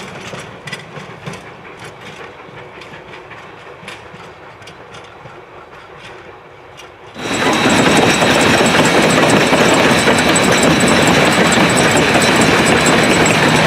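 Steam train running, with sharp clicks of the wheels over the rails. About seven seconds in the sound changes suddenly to a much louder steady rushing noise.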